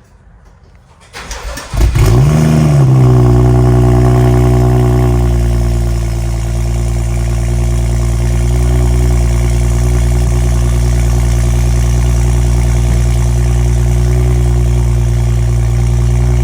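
A 2015 BMW 335i's turbocharged inline-six, fitted with a catless downpipe, cranks briefly and starts about two seconds in. It flares up in revs, then settles into a loud, steady idle that drops slightly a few seconds later.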